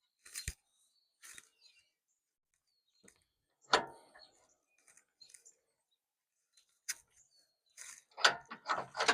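Scattered metal clinks and knocks of hand tools and bolts against a steel bumper and truck frame as the bumper is bolted on, with a quick run of clicks near the end. Birds chirp faintly.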